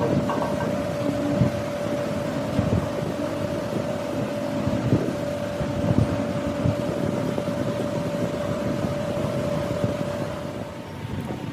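Workshop machine running with a steady whine over a rough rumble and irregular knocks; near the end the whine gives way to a higher one.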